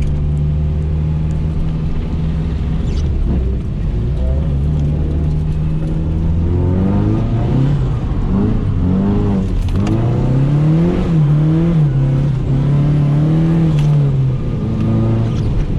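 Nissan 240SX (S13) drift car's engine running steadily, then revving up and down repeatedly from about six seconds in, its pitch rising and falling several times before settling near the end.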